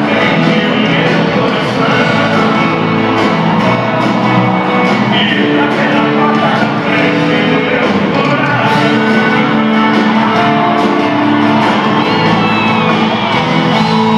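Live sertanejo band playing with singing, and shouts and whoops from the audience over the music.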